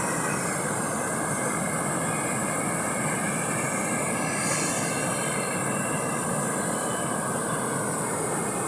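Steady, even rushing noise, with a high hiss that swells briefly about halfway through.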